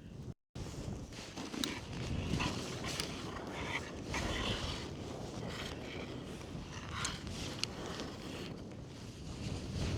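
Wind rumbling on the microphone, with irregular crunching and a few sharp clicks over it.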